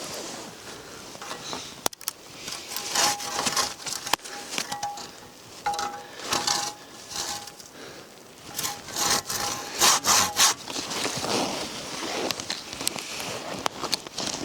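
Hand saw cutting through wood, in uneven runs of back-and-forth strokes, some with a faint ringing from the blade.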